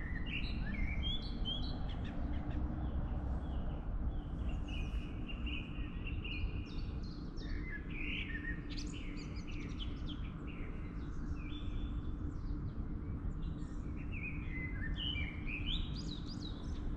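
Songbirds singing, with many short chirping and whistled notes throughout, over a steady low rumble.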